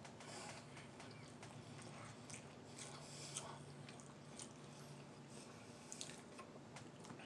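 Faint chewing of a mouthful of ramen noodles and shrimp, with scattered soft wet smacks and clicks.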